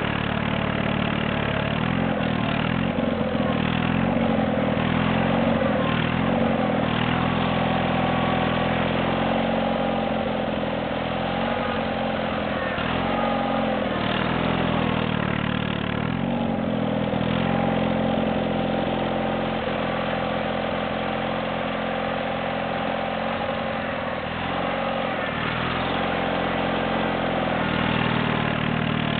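Ariens GT17 garden tractor's engine running steadily while plowing snow, its speed sagging and recovering several times as the plow takes load.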